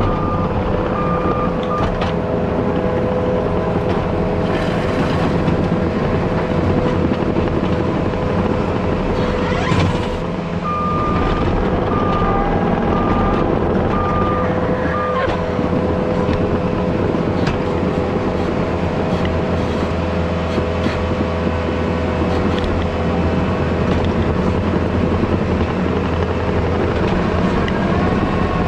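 Engine of a heavy grading machine running steadily under work, with its backup alarm beeping in two spells: briefly about a second in, and for about five seconds in the middle.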